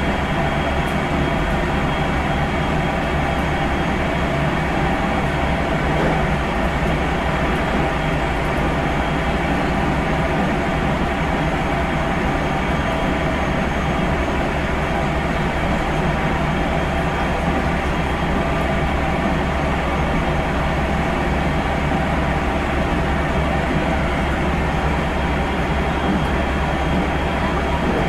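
JR Central 373 series electric train running at a steady speed, heard from the deck inside the car: an even rumble of wheels on rail, with the carriage's air-conditioning hum mixed in.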